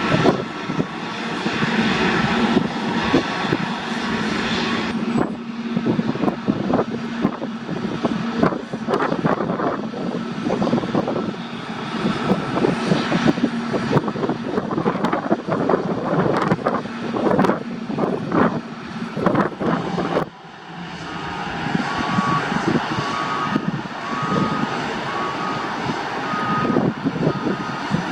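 Airliner engines running on the airfield, a loud steady rumble with a low hum at first and gusty flutter through the middle. About twenty seconds in the sound drops away and a higher engine whine takes over.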